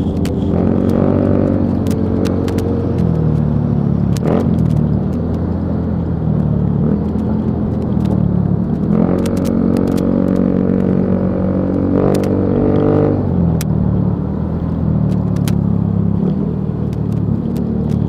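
Motorcycle engine running while being ridden, its pitch rising and falling with the throttle several times, over a steady low road rumble with scattered sharp clicks.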